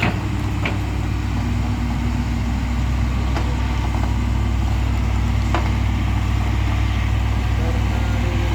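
A heavy vehicle's engine running steadily at low revs, a deep, even sound with no change in pitch.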